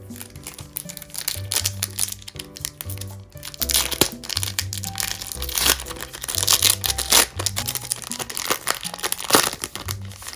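Foil booster-pack wrapper crinkling as it is handled, loudest from about a third of the way in, over background music.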